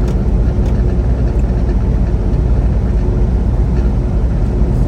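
Steady low rumble of a semi-truck's engine and road noise heard from inside the cab while cruising at highway speed, with a faint steady hum above it.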